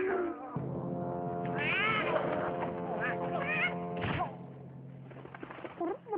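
A domestic cat meowing several times in short rising-and-falling calls over background music; the music stops about four seconds in, and one more meow comes near the end.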